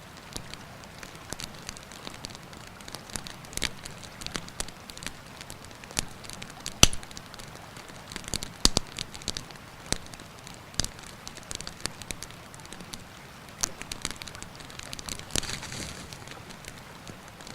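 Wood campfire crackling, with irregular sharp snaps and pops over the steady rushing of a river; the loudest snap comes about seven seconds in.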